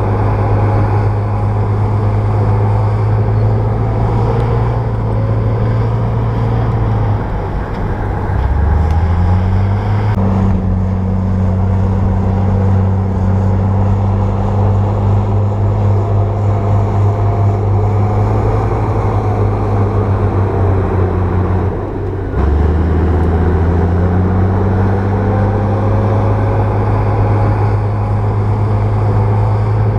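Bulldozer's diesel engine running under steady power. Twice, about seven seconds in and again about twenty-two seconds in, its speed drops sharply and then climbs back up.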